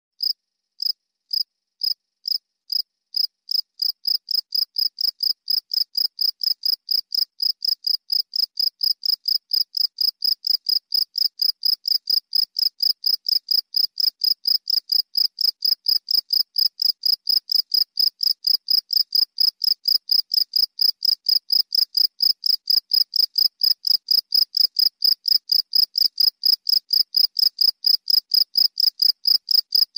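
Cricket chirping: short, sharp, high-pitched chirps that start slowly and pick up over the first few seconds to a steady rhythm of about three to four a second.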